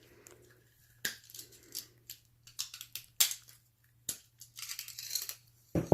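Clicks, knocks and metallic clinks of a chainsaw-chain wood carving disc being taken apart by hand, its loose chain and steel disc plates knocking together, with a brief jingling rattle of chain near the end.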